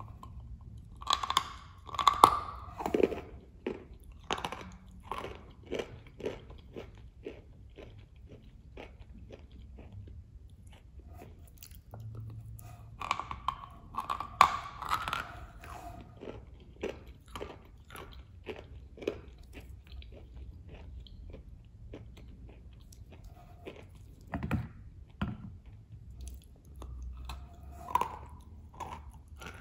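Close-miked biting and chewing of a crumbly, cream-coated wet cookie. There are crunchy bites about a second in and again around the middle, with a few more near the end, and soft crackling chews between them.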